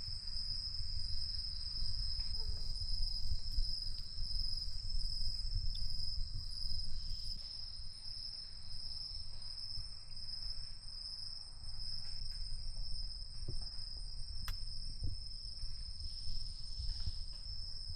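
Insects singing in a steady high-pitched drone over a low rumble, with a single sharp click about three quarters of the way through.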